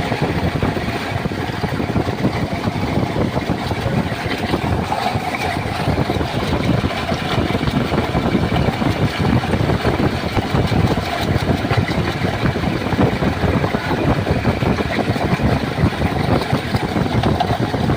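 Tata 3.3-litre BS6 diesel engine in a 1112 LPK truck running steadily with an even, fast pulse. The mechanic takes the abnormal noise in it for a broken fan pulley bearing.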